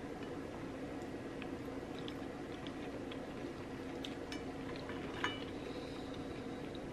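Close-up chewing of fried chicken, with small scattered mouth clicks over a steady low background hum; a sharp click with a brief ring about five seconds in.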